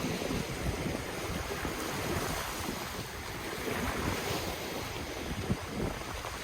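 Ocean waves washing in, with the hiss swelling about a third of the way through and easing off again, while wind buffets the microphone with uneven low rumbles.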